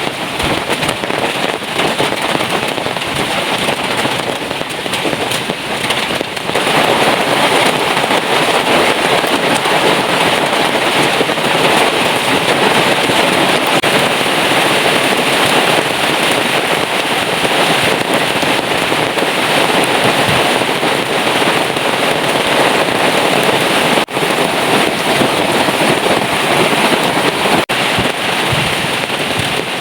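Heavy rain pouring down in a dense, crackling patter, growing heavier about six seconds in.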